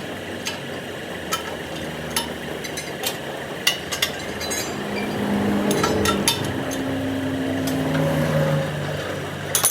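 Scattered sharp metallic clinks and knocks, irregularly spaced, over a steady background noise, typical of hand work on a steel truck rim.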